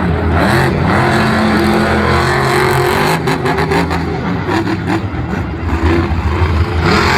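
Soldier of Fortune monster truck's engine revving loudly, its pitch rising and falling, with a run of sharp crackles in the middle.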